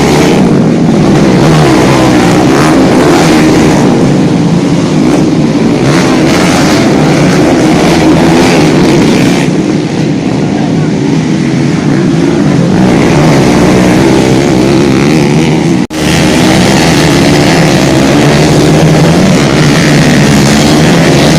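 Motocross motorcycle engines revving loudly while racing, their pitch rising and falling continuously. There is a brief break in the sound about sixteen seconds in.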